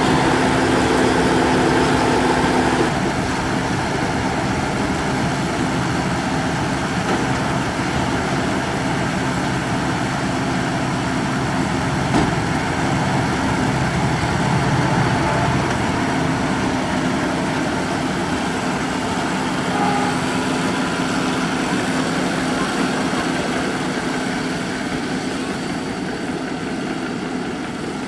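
Tractor diesel engine running steadily, with a steady hum that is strongest for the first few seconds and comes back past the middle. A single short knock comes about twelve seconds in.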